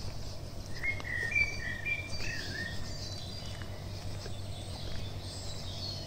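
Songbirds singing in the trees: a short run of clear whistled notes about a second in, with fainter high chirps from other birds throughout, over a steady low hum.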